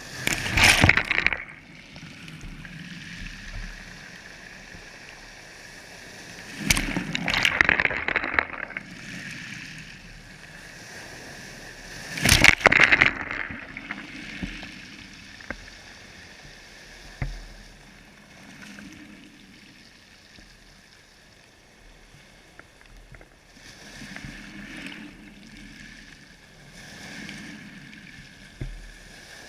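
Sea water splashing and sloshing in surges, three loud ones in the first half and weaker ones after, over a steady wash of water.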